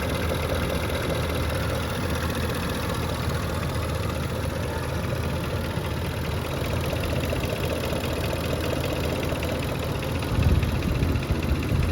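Range Rover Sport L320's supercharged V8 idling steadily, warmed up with the thermostat open and the electric cooling fan running, and sounding right after a tune-up. A brief louder low bump about ten and a half seconds in.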